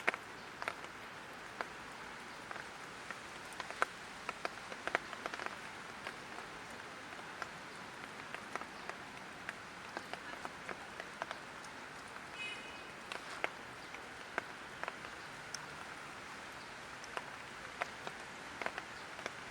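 Light rain falling: a steady soft hiss dotted with many scattered drop ticks. A brief high-pitched tone sounds about two-thirds of the way through.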